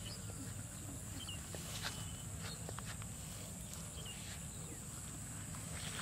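Rural outdoor ambience: a few short, high bird chirps over a steady high-pitched hiss and a low steady rumble.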